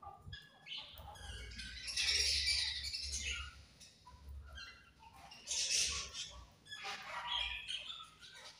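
Budgerigars chirping and chattering in a dense, rapid flurry of short calls, loudest about two seconds in and again around six seconds, with a low rumble underneath.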